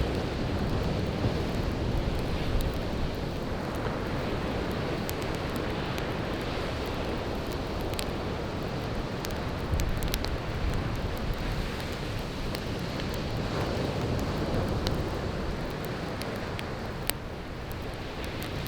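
Surf washing steadily onto the beach, with sharp crackles and pops from burning firewood scattered through it and a louder pop near the end.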